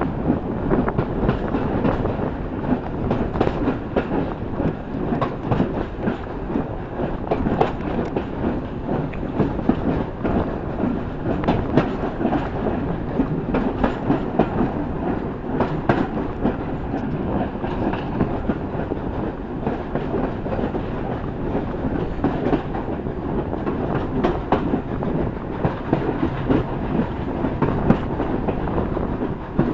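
Train carriage running along the track, heard from an open side window: a steady rumble of wheels on rail with frequent irregular clicks and knocks over the rail joints.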